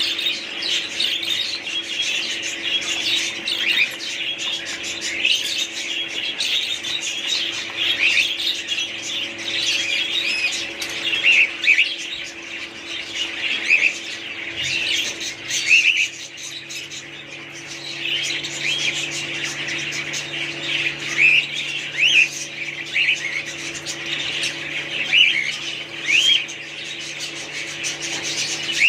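A group of small cage birds chirping and chattering continuously, many short overlapping calls with occasional squawks, over a steady low hum.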